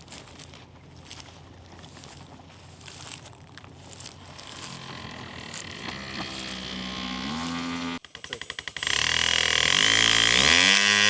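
An engine revving up, its pitch rising. It cuts out briefly partway through, then comes back much louder and climbs again near the end.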